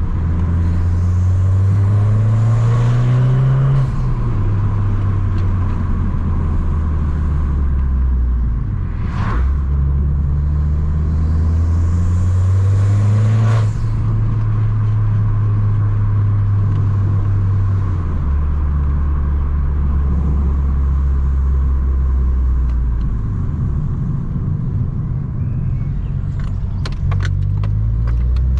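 Tuned Abarth 595 Competizione's 1.4 turbo four-cylinder, with a 60 mm full exhaust, pulling through the gears. The engine note rises and drops back at a shift about four seconds in, and again about thirteen seconds in, then runs steadily at lower revs. A few sharp crackles come near the end.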